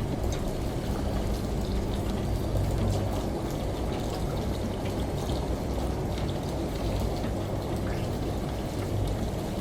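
Steady running, pouring water with a patter of scattered drops, over a low steady hum.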